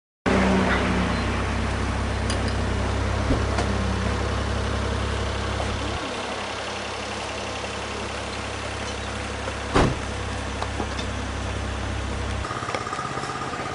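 An engine running steadily at idle, its low drone shifting twice during the clip, with one sharp knock about ten seconds in.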